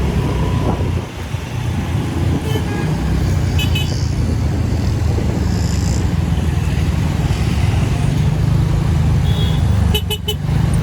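TVS Ntorq scooter riding through road traffic: a steady rumble of engine and wind noise, with short horn toots from other vehicles, once a few seconds in and again near the end.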